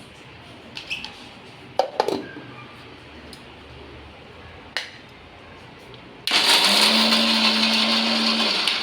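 A few sharp clicks and knocks, then an electric mixer grinder runs in one burst of about two seconds, its motor humming steadily under the rattle of roasted cashews and walnuts being ground to powder. It is run only in a short pulse so the nuts grind without turning to butter.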